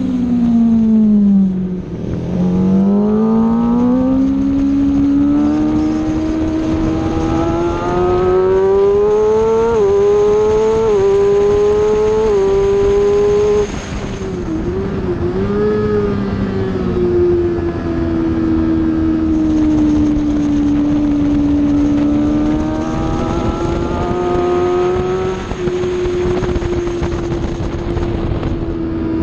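Aprilia Tuono motorcycle engine at track speed, with wind rush. The revs fall in the first two seconds, then climb through several quick upshifts, each a brief dip in pitch, until a sharp drop about 14 seconds in. After that the revs hold fairly level, rising and falling slightly.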